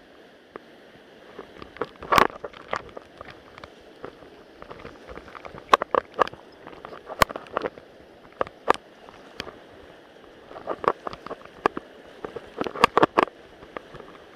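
Steady rush of a mountain stream, with irregular sharp clicks and knocks close by that come in clusters about two seconds in and again near the end.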